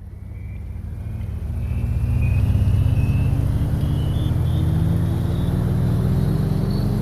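A motor vehicle's engine running and slowly gathering speed, its pitch climbing steadily together with a thin high whine. The sound fades in over the first couple of seconds.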